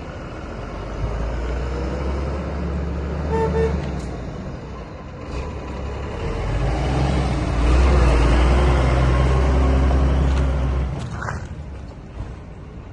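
DAF 55 230 truck's diesel engine running steadily, getting louder about seven seconds in and dropping back to a lower note near the end. Two short beeps about three and a half seconds in.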